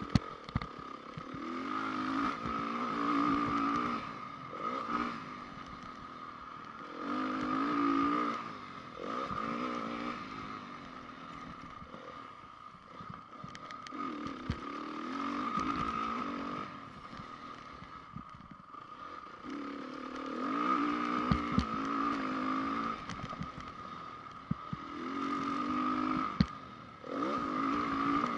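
2010 Honda CRF450 single-cylinder four-stroke motocross engine revving up hard and falling off again about six times through the turns and straights, with a few sharp knocks and clatter from the bike over the track.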